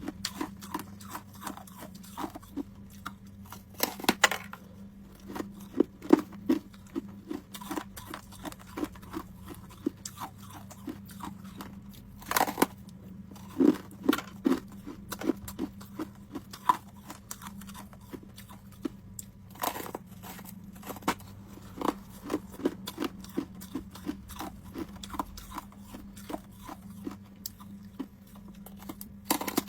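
Homemade ice cubes being bitten and crunched between the teeth close to the microphone: a string of irregular crisp cracks and crunches, with a few much louder bites every several seconds.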